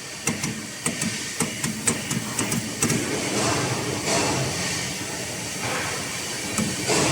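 Air duct production line machinery working: a run of sharp, irregular metallic clicks and knocks for the first few seconds, then a steady hissing, rushing machine noise.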